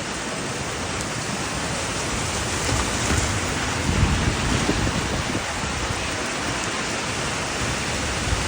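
Heavy rain pouring steadily, with a louder low rumble swelling about four seconds in, from strong wind gusts or distant thunder.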